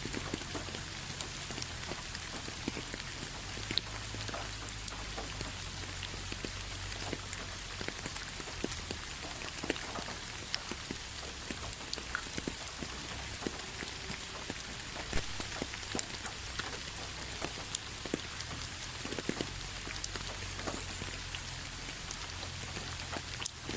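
Steady rain falling on a surface, a continuous hiss with many separate drops clicking and tapping throughout.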